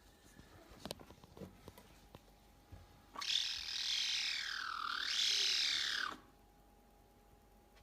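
An animal's single harsh, screeching call lasting about three seconds, falling in pitch and then rising again before cutting off.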